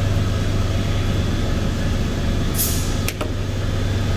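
2003 Mazda Tribute's 3.0 L DOHC Duratec V6 idling steadily after repair, running smoothly now that the leaking oil separator gasket has been replaced. A short hiss comes about two and a half seconds in, followed by a sharp click.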